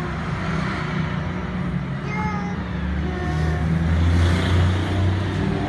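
A motor vehicle's engine running steadily, growing louder about four seconds in. Brief high-pitched chirps are scattered over it.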